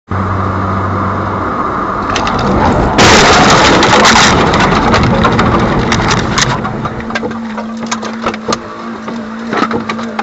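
Vehicle collision: steady engine and road noise, then about three seconds in a loud crash, followed by a run of sharp cracks and clatter that thins out.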